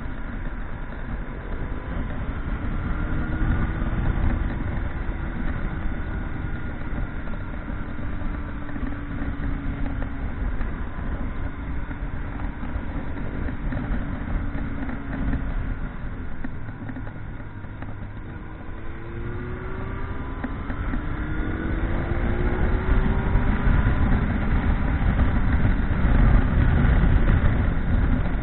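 Motorcycle being ridden, its engine note slowly falling through the first half, then climbing again through the second half as it speeds up, over a heavy low rumble.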